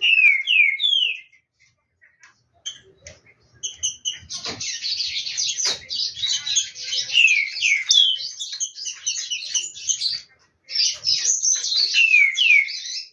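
Green-winged saltator (trinca-ferro) singing in short, falling whistled slurs mixed with rapid, dense chattering phrases, in two long bursts after a brief opening phrase. This is its warm-up song ahead of the singing season.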